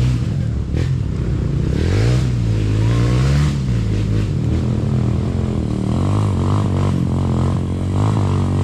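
Enduro dirt bike engine running hard close to the microphone, its revs climbing and dropping repeatedly as the throttle is worked on a rough trail.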